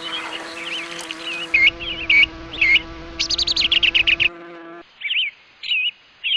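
Songbird singing: short swooping whistled phrases repeated every half second or so, with a rapid trill in the middle. Under the first part runs a steady buzzing hum that stops about five seconds in.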